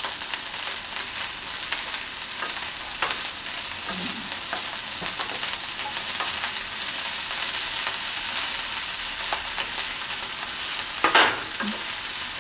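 Fried rice with mixed vegetables sizzling steadily in a frying pan while a wooden spatula stirs and turns it, with light scrapes against the pan and one louder stroke near the end.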